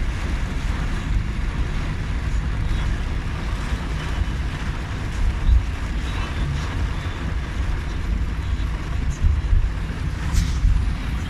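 A car being driven in strong storm wind: a steady low rumble with wind buffeting the microphone, and a few louder gusts or bumps.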